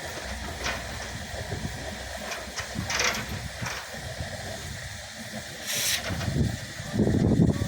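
Railway locomotive engine running with a steady low rumble, broken by two short hisses of air about three and six seconds in, and a louder low rush near the end.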